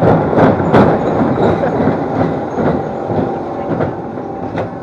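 Ride cars rattling and clattering along a rail track, with a string of sharp clicks and knocks that is loudest in the first second and then eases off.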